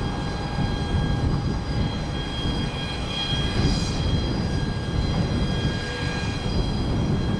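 Airbus A400M's turboprop engines running on the ground as it taxis: a steady deep rumble with several thin whining tones above it.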